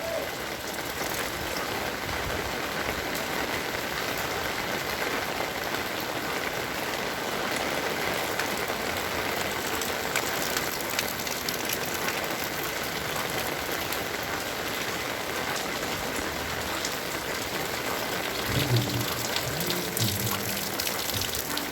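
Heavy rain falling steadily, an even hiss of drops. A low, broken sound like distant voices joins near the end.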